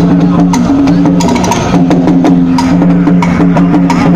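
Taiwanese sedan-chair front drum (轎前鼓) troupe playing: quick drum and percussion strikes over a steady low tone that breaks off and resumes several times.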